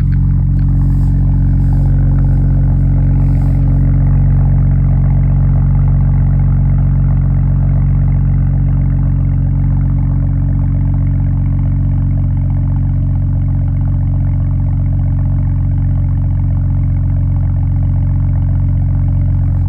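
A 2008 BMW 535xi's N54 twin-turbo inline-six idling steadily through a straight-piped exhaust with an X-pipe, shortly after a cold start. The exhaust note is loud and even, with a deep drone.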